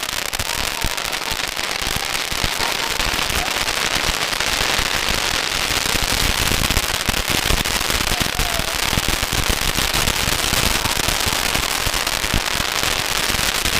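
Strings of firecrackers going off in a continuous rapid crackle of bangs, dense and unbroken.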